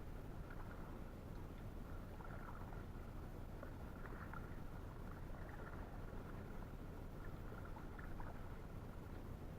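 Water splashing and trickling lightly around a paddled Gumotex Scout inflatable canoe, with small scattered splashes over a steady low rumble.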